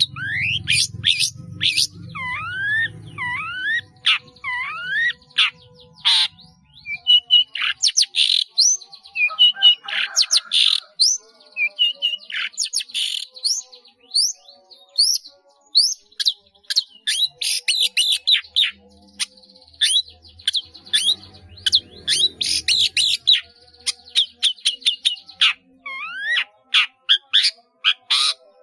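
Long-tailed shrike (cendet) in full song, a fast, varied string of sharp chirps, rapid trills and mimicked calls of other birds, with a run of swooping whistles near the start.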